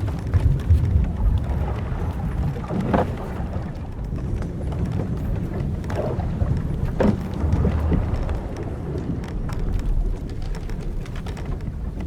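Old wooden sailing ship's timbers and rigging creaking in a few short groans, over a steady low rumble of wind and sea against the hull.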